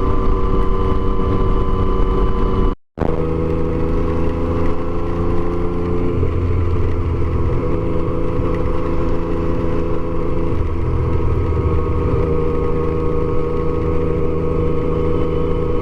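Yamaha Tracer motorcycle engine running at a steady cruise, with wind and road noise. The sound cuts out completely for a moment about three seconds in.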